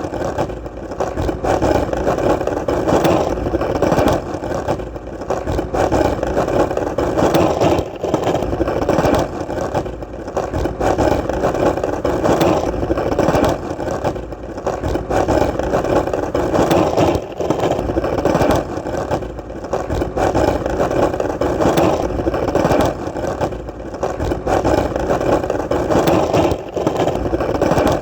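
Skateboard wheels rolling on hard ground: a continuous rumbling roll, dipping briefly every couple of seconds.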